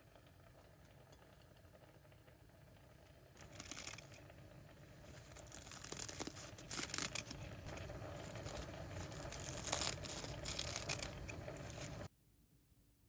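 Crinkling and rustling handling noise with scattered clicks, starting a few seconds in over a faint hum and cutting off abruptly near the end.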